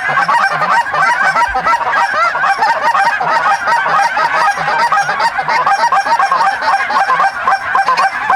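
Large flock of geese honking at close range: dozens of short, overlapping rising-and-falling calls at once, a steady dense din with no pause.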